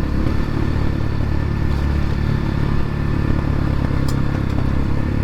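X-Pro Templar X 250 dirt bike engine running steadily in a low gear while riding downhill, with a short click about four seconds in.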